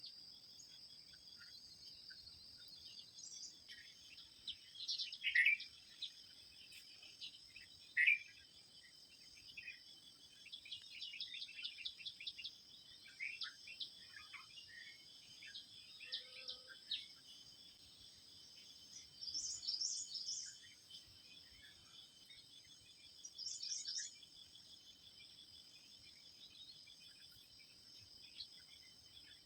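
Forest ambience: a steady, high insect chorus of crickets or cicadas, with wild birds calling over it in short chirps and quick runs of notes. The loudest calls come about five and eight seconds in, with a rapid series of chirps a little later and two high bursts near the end.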